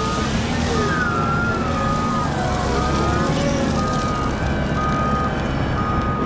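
Cat 972M XE wheel loader's diesel engine running steadily while its reversing alarm beeps about once a second, each beep about half a second long. Fainter whining tones slide up and down in pitch over the engine.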